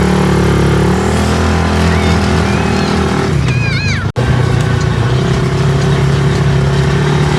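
Small vehicle engine running steadily at speed during a ride, cutting out for an instant about four seconds in.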